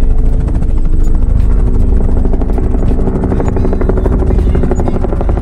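Small toy remote-control helicopter's motor and rotor running with a steady whir over a heavy low rumble.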